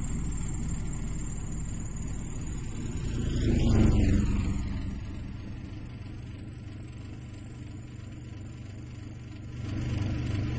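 Car engine sound for the animated flying car: a steady low running hum that swells about four seconds in and falls in pitch as the car passes by, then settles to a quieter steady hum and grows louder again near the end.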